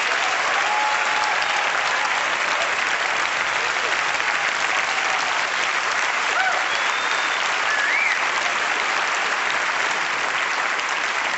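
A large audience applauding steadily, with a few faint voices calling out over the clapping.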